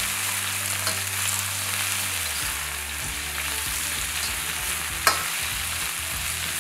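Coated chicken pieces sizzling in hot vegetable oil in a wok, stirred with a metal slotted spatula, a steady frying hiss. A single sharp clink of the spatula against the wok about five seconds in.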